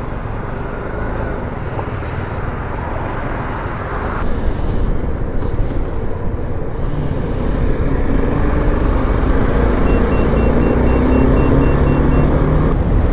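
BMW G 310 GS motorcycle's single-cylinder engine running as the bike pulls away and picks up speed, getting louder about four seconds in and again around eight seconds.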